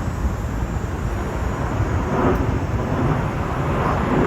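Jet aircraft engine noise: a loud, steady low rumble with no breaks.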